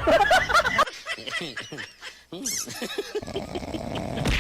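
Animal calls: many short cries that glide in pitch, changing abruptly twice.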